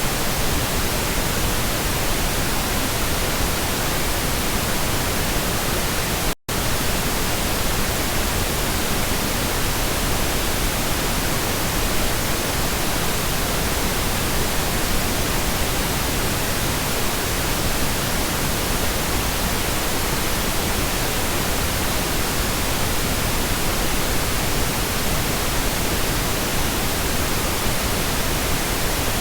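Steady synthetic pink noise, an even hiss spread over all pitches, with a momentary dropout to silence about six seconds in.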